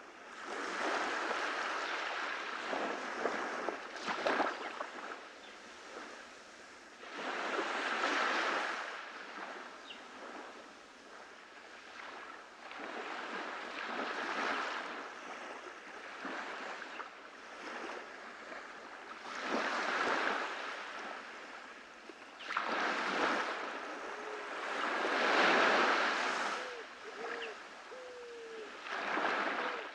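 Ocean waves breaking on a beach, the surf swelling and washing back in slow waves every several seconds, the biggest wash about three quarters of the way through.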